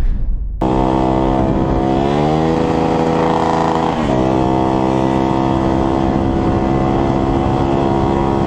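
Motorcycle engine running hard on the street. Its pitch climbs about two seconds in, holds, then drops quickly about four seconds in, and it runs steadily after that.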